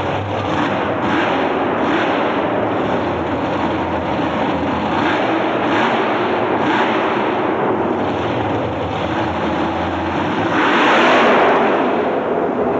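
Big racing engine running hard at high revs, with a louder surge near the end.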